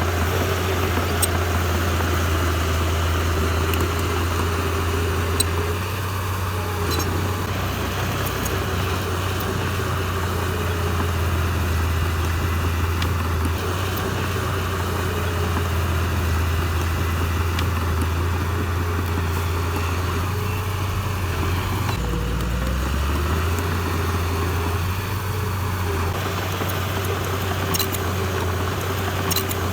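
Diesel engine of heavy earthmoving machinery running steadily under work. Its note dips and recovers about two-thirds of the way through, with a few faint clicks scattered through.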